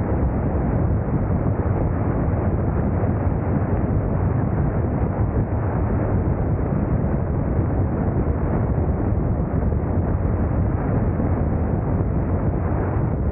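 Steady wind rush over the microphone mixed with a motorcycle running at road speed, with no change throughout.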